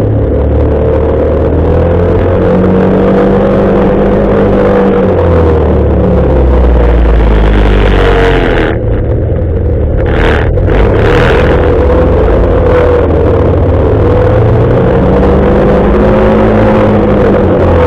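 Motorcycle engine running steadily while riding, its pitch rising and falling gently with speed. About halfway through, two short louder rushes of noise come about a second apart.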